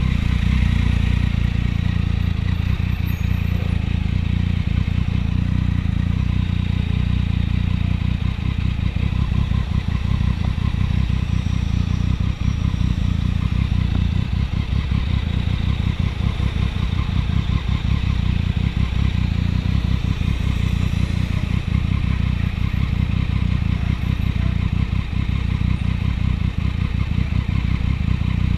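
Triumph 675 motorcycle's three-cylinder engine running steadily at an even speed.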